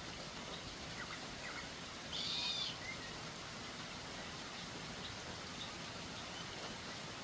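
A bird calls once, a short high call of about half a second about two seconds in, with a few faint chirps a second earlier, over a steady hiss.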